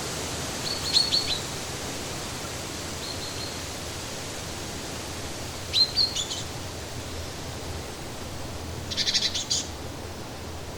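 A bird giving short high chirping calls: a few notes about a second in, a faint one near three seconds, another pair near six seconds, and a quick chattering run near the end, over a steady rushing background noise.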